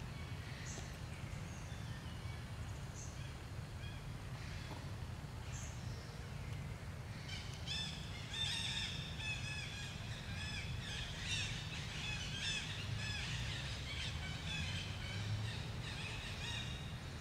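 Birds chirping over a steady low background rumble: scattered single chirps at first, then many short, high chirps crowding together from about seven seconds in.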